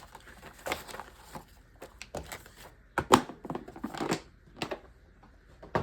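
Sheets of cardstock being handled and shuffled on a work table: irregular rustles and slides of paper, with a sharper tap about three seconds in.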